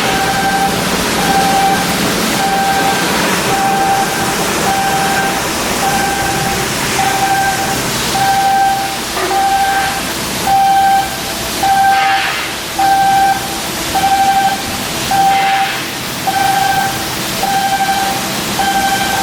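A repeating electronic warning beeper, one short tone about every second, over a steady hiss of yard machinery with louder noisy surges later on.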